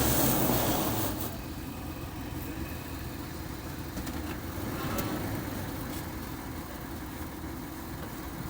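A vehicle engine running steadily, with a louder noisy surge in the first second.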